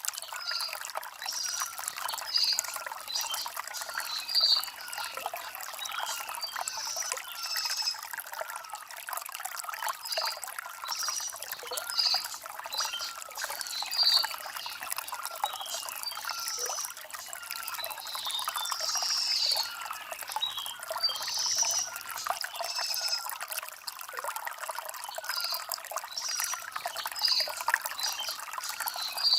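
Shallow stream water trickling and gurgling over stones, steady throughout, with a few brief louder splashes.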